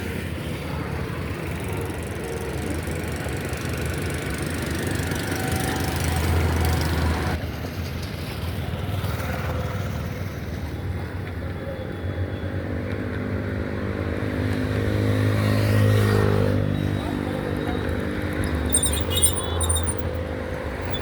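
Road traffic with a steady rumble. A motor vehicle's engine draws closer and passes about three-quarters of the way through, its pitch dropping as it goes by.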